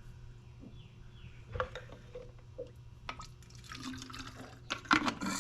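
Power steering fluid dripping and squirting from a turkey baster as old fluid is drawn out of the reservoir, with a few light knocks of handling about a second and a half in, around three seconds, and near the end.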